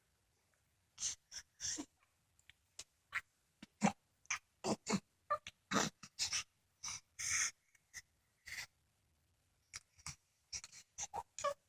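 A young child's short breathy noises, little squeaks and gasps, coming in quick irregular bursts, mixed with small clicks.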